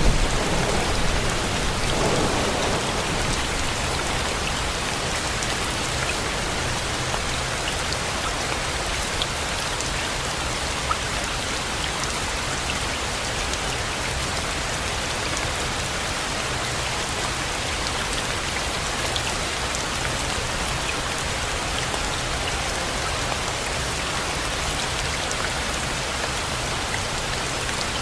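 Steady rain with scattered drop clicks, and a low thunder rumble dying away in the first few seconds.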